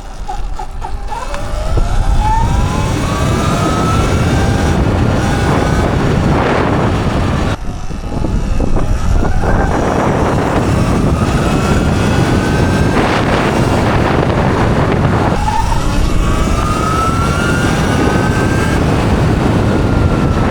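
Electric dirt bike's motor whining up in pitch as it accelerates hard, three times over, each run cut off sharply as the throttle is let go. Heavy wind buffets the microphone throughout.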